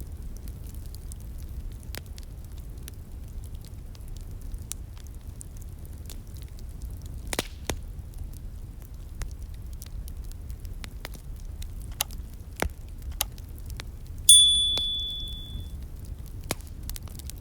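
Wood fire crackling, with scattered sharp pops over a low steady rumble. About fourteen seconds in comes one loud pop followed by a short high ringing tone that fades away.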